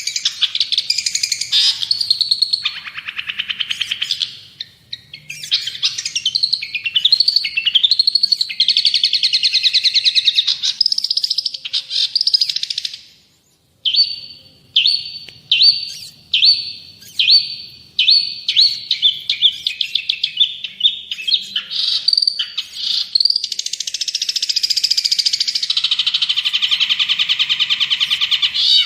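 Long-tailed shrike (cendet) singing steadily, a high, varied warble broken by harsh, buzzy passages. About halfway through it stops briefly, then gives a run of short repeated notes that come faster and faster, and ends in a long, harsh, buzzy stretch.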